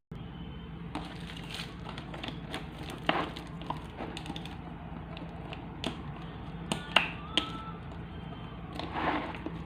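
Irregular light clicks and taps over a steady low hum, with a few brief high chirping tones about seven seconds in.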